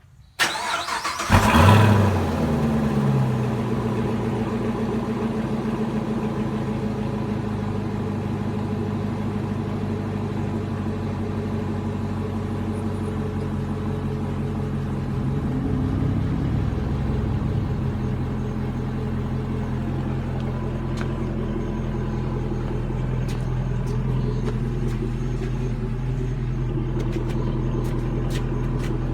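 Chevrolet Camaro SS V8 with a Corsa cat-back exhaust cranking over, catching with a brief loud flare about a second and a half in, then settling into a steady idle.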